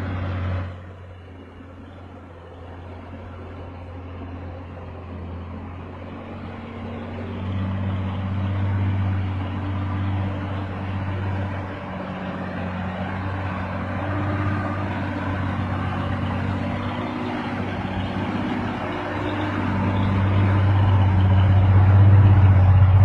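Bedford truck engine running, a steady low drone that grows gradually louder and is loudest near the end.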